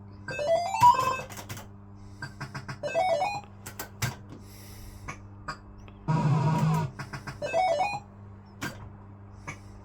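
Barcrest MPU3 Autoroute fruit machine's electronic sound effects: quick rising bleep runs near the start, about three seconds in and near eight seconds, scattered sharp clicks, and a loud buzzing tone about six seconds in, all over a steady electrical hum.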